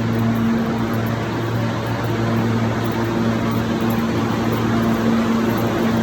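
New York City subway train running: a loud, steady rush of noise with a steady low hum.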